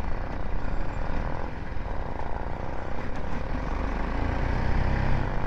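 Motorcycle ride on a BMW G 310 GS going downhill: steady wind rush and rumble on the rider's microphone with the single-cylinder engine running underneath.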